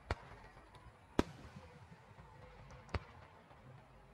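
Aerial firework shells bursting: three sharp bangs a second or two apart, the second the loudest.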